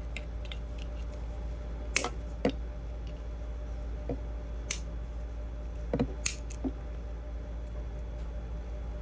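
Scattered sharp clicks and taps of small hard parts being handled during power-tool disassembly, about seven in all, over a steady low hum.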